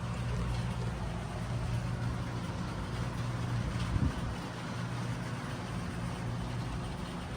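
Steady low mechanical hum, with a single knock about four seconds in.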